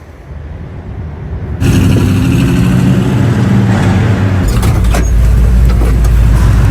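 Truck engine revving hard under load. It comes in suddenly loud about a second and a half in, and a deep low rumble builds up near the middle.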